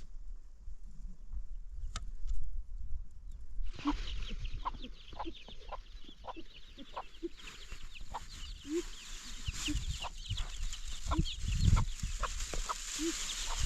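Chickens clucking, with a dense chorus of high-pitched chirping that starts about four seconds in and carries on to the end.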